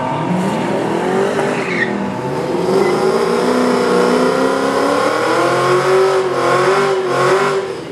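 Two drag-racing cars accelerating hard down the strip, one of them a late-2000s Ford Mustang, their engines at full throttle. The engine note rises, drops about two seconds in, then holds high and steady before fading near the end.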